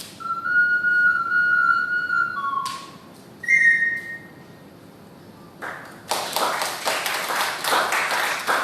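The closing notes of an ocarina melody: a long held note, a short lower note, then a brief higher note, dying away about four seconds in. After a short pause, audience applause starts about six seconds in.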